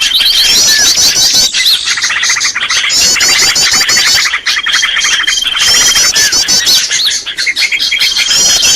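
Bird-lure call recording: loud, dense birdsong of rapid high chirping notes overlaid with a held thin whistle, the same phrases coming round again every few seconds as in a looped lure track.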